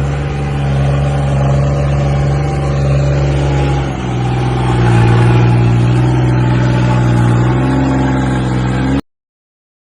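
New Holland 3630 tractor's three-cylinder turbocharged diesel engine running steadily under load. About four seconds in, its note shifts lower and grows louder, then the sound cuts off abruptly near the end.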